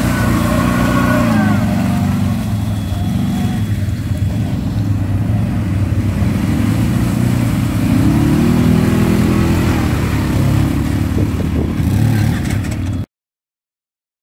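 ATV engine running and revving, its pitch rising and falling with the throttle; the sound cuts off abruptly near the end.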